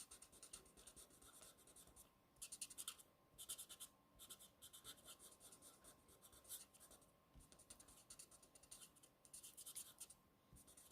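Faint scratching of Stampin' Blends alcohol markers stroking over card stock, in quick clusters of short strokes with brief pauses between, as stamped flowers are coloured and blended.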